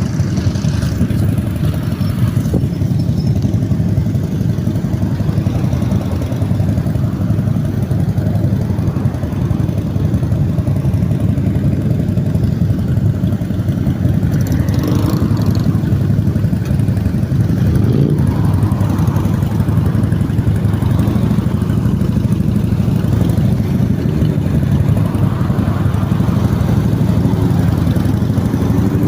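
Motorcycle engines running together in a steady low rumble, as a column of motorcycles rides in a group.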